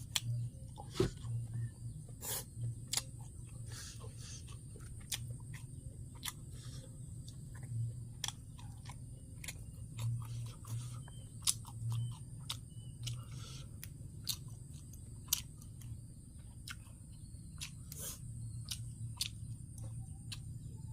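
A person eating papaya salad with grilled shellfish: irregular chewing and crunching with sharp little clicks, over a steady low hum.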